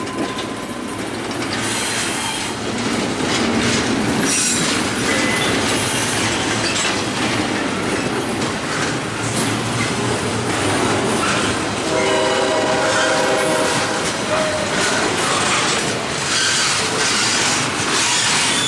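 Double-stack intermodal freight train's well cars rolling past, steel wheels clattering over the rail joints with brief high wheel squeals now and then. A train horn sounds briefly about twelve seconds in.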